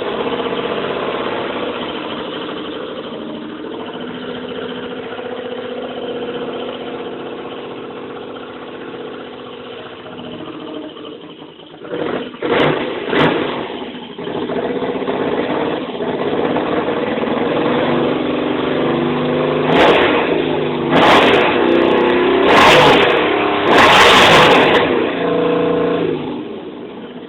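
1980 Yamaha XS850's three-cylinder engine running on its first start after a carburettor rebuild. It idles steadily, is blipped twice about halfway through, then revved up several times in a row before settling back to idle near the end.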